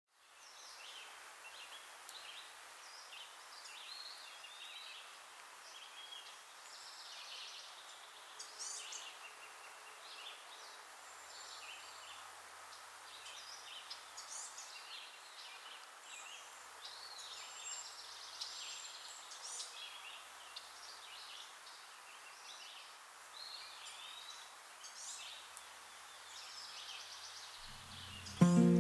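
Several birds singing and calling, with many short chirps and warbling phrases over a faint steady hiss.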